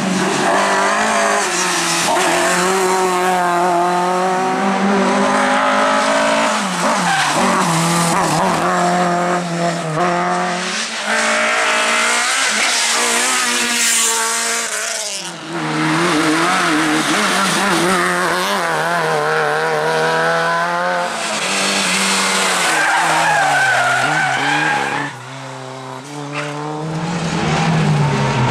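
Rally cars driven hard, engines revving up and down, with tyres squealing and skidding as the cars slide through corners.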